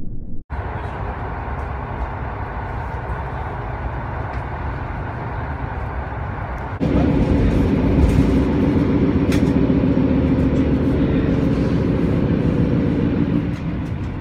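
Passenger train running, heard from inside the carriage: a steady rumble of wheels on rails. About seven seconds in it gets louder, with a steady hum over the rumble and a few sharp clicks.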